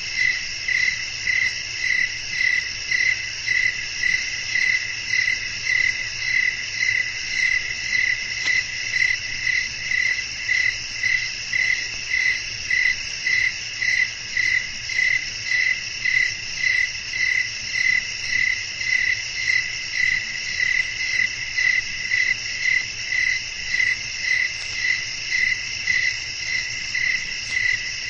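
Night chorus of crickets: one chirps in even, rhythmic pulses, about three every two seconds, over a steady, higher, continuous insect trill.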